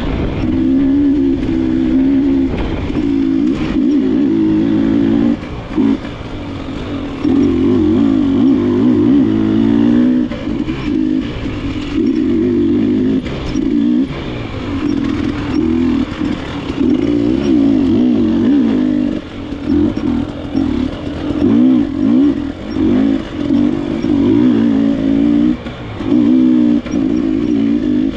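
KTM enduro motorcycle engine revving up and down as the throttle is opened and shut again and again, with the pitch wavering constantly and several brief drops where the throttle closes.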